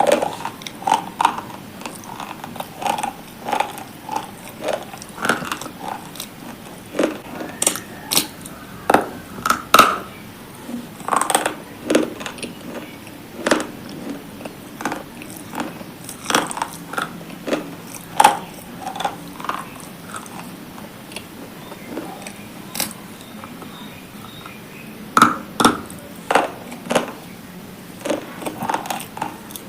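A person biting and chewing something hard and crunchy: repeated sharp crunches at irregular intervals, some coming in quick runs of two or three.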